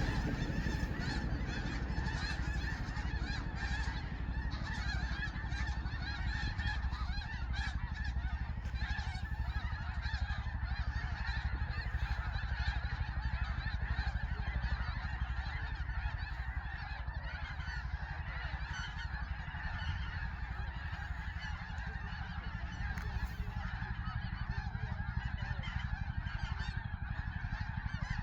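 A huge flock of geese, white geese and Canada geese, calling all at once: a dense, unbroken chorus of overlapping honks, with a steady low rumble underneath.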